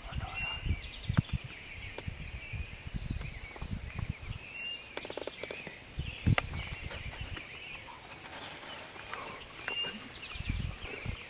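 Dawn chorus of several songbirds chirping and trilling, over low rumbles and occasional small knocks close to the microphone.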